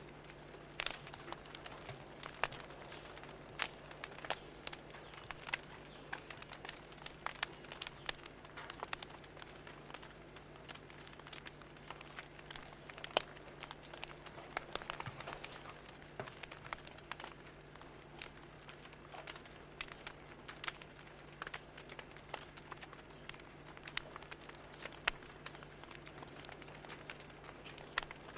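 Fire crackling: irregular sharp pops and snaps, several a second, over a low steady hum.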